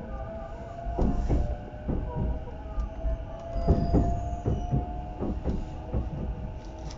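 JR East E233-0 series electric commuter train running, heard from inside the car: a steady rumble with pairs of clacks as the wheels cross rail joints, under a thin whine that rises slightly in pitch.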